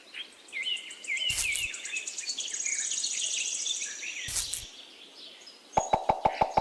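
Birds chirping with a fast high trill, broken by two short bursts of noise. Near the end a rapid, even pulsing starts, about six pulses a second.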